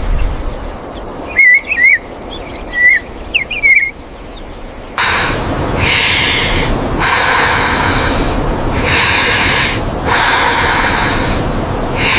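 A few short whistled bird chirps, then from about five seconds in a loud, pitched buzzing of a bee swarm that comes in surges of a second or two with brief breaks.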